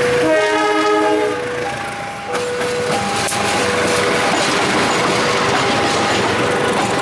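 A KAI CC 203 diesel-electric locomotive gives one short horn blast about a second long, then the locomotive and its passenger coaches pass close by with rumbling wheel clatter. Through it all the level crossing's warning alarm keeps sounding its two alternating tones.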